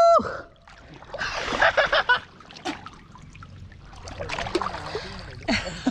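Splashing and sloshing in wet paddy-field mud and water. A short, high, held voice-like call sounds right at the start, and scattered voices come in near the end.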